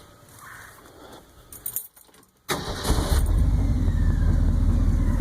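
Keys jingle, then about two and a half seconds in the 1966 Ford F100's 390 FE V8 is cranked, catches within half a second and settles into a steady idle. The idle carries a tick that sounds like a lifter tick but comes from an exhaust leak under the exhaust manifold.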